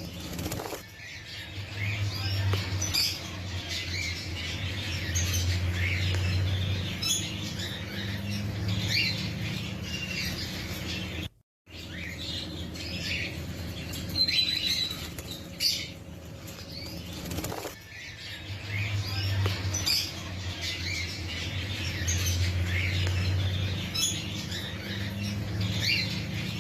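Lovebirds chirping in quick, short high notes with fluttering wings, over a low hum. The sound cuts out for a moment near the middle.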